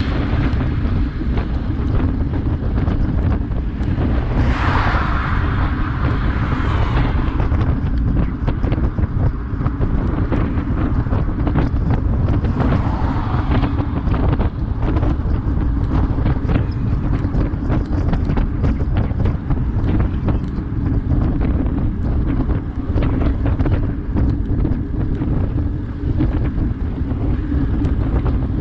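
Strong wind buffeting an action camera's microphone on a moving bicycle: a steady, loud low rumble, with a brief hissing swell about five seconds in.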